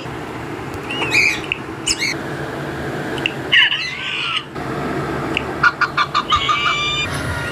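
A bird squawking and calling in short separate calls, with a quick run of rapid repeated notes about six seconds in.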